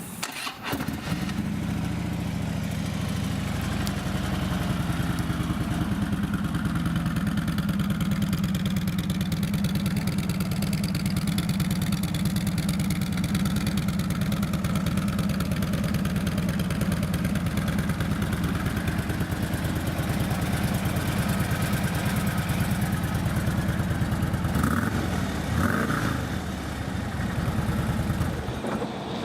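Harley-Davidson Tri Glide trike's 103-cubic-inch fuel-injected Twin Cam V-twin, with a Vance & Hines exhaust, starting about half a second in and then idling steadily with a fast, even pulse.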